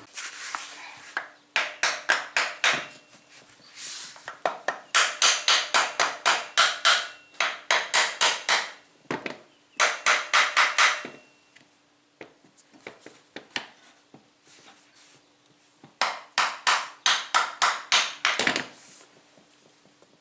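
Rapid hammer blows on the lawn tractor's transaxle case, about five or six a second, in several bursts with short pauses between, to break the case's sealed joint and split it.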